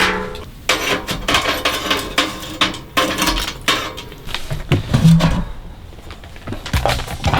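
Irregular knocks, clinks and clatters of hard objects being handled, like cookware and utensils.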